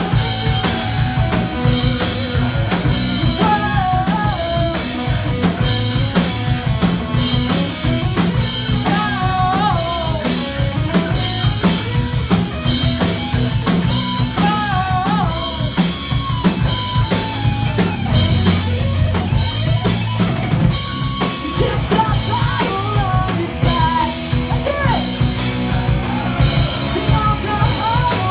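Metal band playing live at full volume: a drum kit pounding with bass drum and snare under the band, and a melodic line bending and sliding above it.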